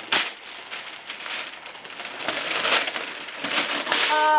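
Wrapping paper being torn and crumpled as a present is unwrapped, in irregular crackly rips with a sharp tear just after the start. A voice exclaims near the end.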